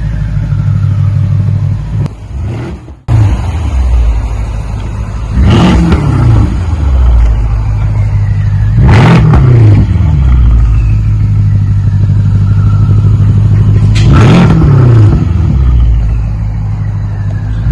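A 2013 BMW 550i's twin-turbo V8 running through a straight exhaust, its rear mufflers, mid muffler and resonators removed and an X pipe fitted. It idles with a deep steady note and is blipped three times, each rev rising and quickly falling back to idle. The sound dips out briefly about two seconds in.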